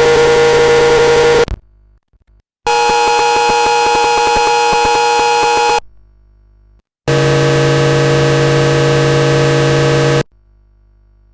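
Sovage Engineering Oxymoron Eurorack noise-generator module fed a square-wave source, its outputs heard one after another. There are three harsh, steady buzzing tones full of overtones and hiss, each lasting about three seconds. Each stops abruptly before a short silent gap.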